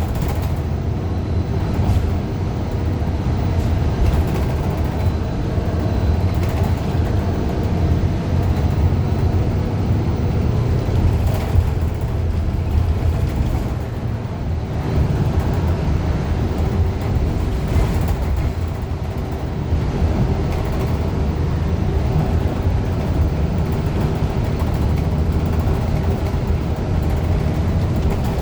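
Cabin sound of a 2015 Gillig Low Floor 40' CNG transit bus under way: its Cummins Westport ISL G engine and drivetrain running with a steady low rumble of road noise.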